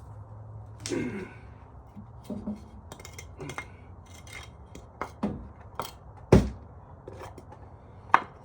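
Scattered metallic clinks and knocks of hand tools and metal parts being handled, at irregular intervals, with one louder knock a little past the middle.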